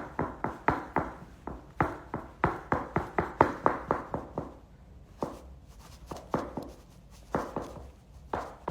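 A quick series of sharp taps or knocks on a hard surface, about three a second, thinning out and growing fainter about halfway through.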